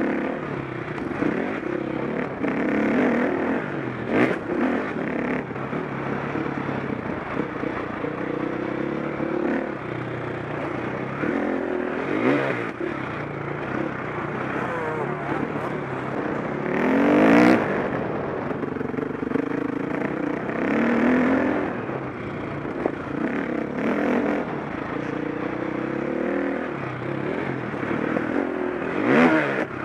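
KTM 525 SX four-stroke single-cylinder motocross engine being ridden hard, its revs climbing and dropping again and again through the gears and over jumps. Several sudden louder moments come through, about 4, 12, 17 and 29 seconds in.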